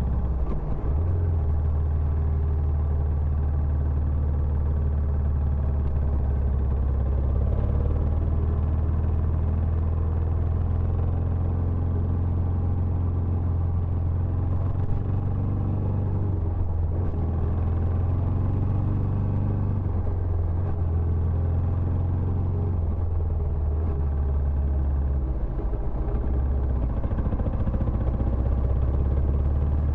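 Benelli Imperiale 400's single-cylinder engine running through its stock exhaust, a steady low exhaust note that shifts only slightly in the middle and again near the end.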